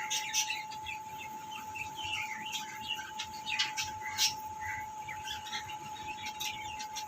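A flock of small caged pet birds chirping, many short calls overlapping, with a few louder chirps along the way. A steady, even tone hums underneath throughout.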